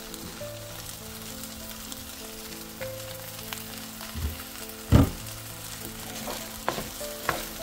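Fried rice sizzling in a stainless steel pan while a wooden spoon stirs it, with a dull knock about five seconds in and a couple of light clicks near the end.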